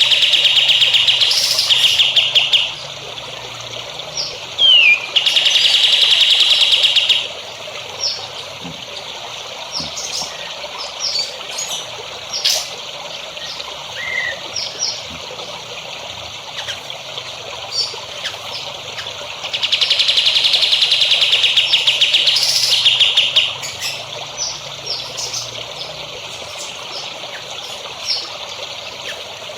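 Songbird singing long, rapid, buzzy trills of two to four seconds each: one at the start, another around six seconds in and a longer one around twenty seconds in. Short chirps are scattered between them over a steady trickle of water.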